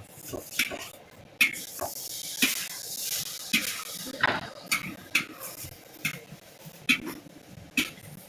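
Metal cooking utensils clanking against cookware, a sharp ringing strike every half second to a second, with a stretch of hissing from about a second and a half in, lasting roughly two seconds.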